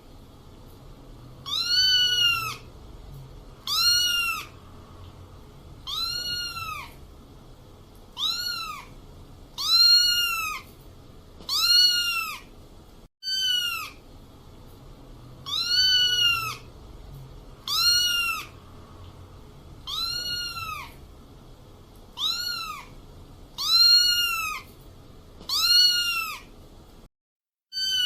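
Kitten meowing over and over, one high meow that rises and falls in pitch about every two seconds, with a brief break about halfway through.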